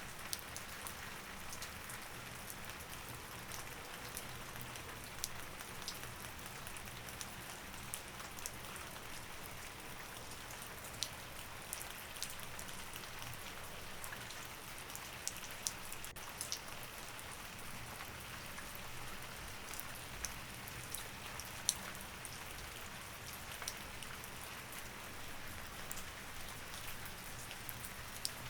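Steady rain falling as an even hiss, with scattered sharp drops tapping here and there.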